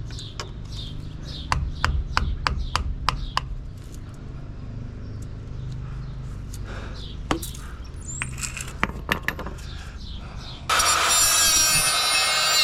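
Hand-tool work on a pickup's sway bar link: a run of sharp metal clicks and knocks, about four a second at first, then scattered. About two seconds before the end, a loud steady noise with a whine starts abruptly.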